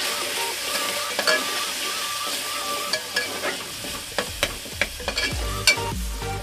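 Onion-tomato masala with spices sizzling in oil in an open aluminium pressure cooker as it is stirred, with repeated sharp clicks and scrapes of the stirring utensil against the pot.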